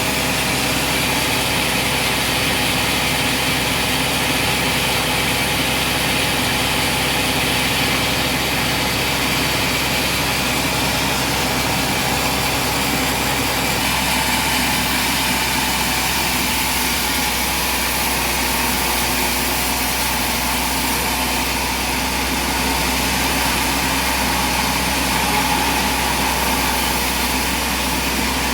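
An engine running steadily at a constant speed, without revving or breaks.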